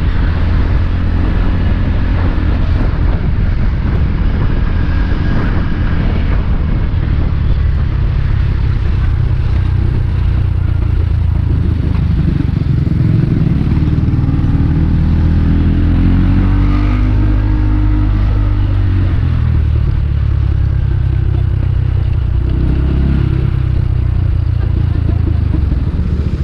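Motorbike engine running steadily while riding, with the engine note rising and falling for a stretch in the middle.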